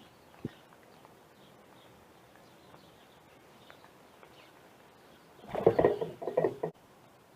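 Birds outdoors: faint chirps over a quiet background, then a loud, harsh burst of bird calls lasting about a second, starting a little after five seconds in.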